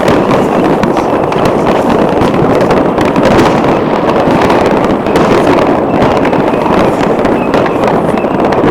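Fireworks going off all around: a dense, unbroken crackle of many small cracks and pops, loud throughout.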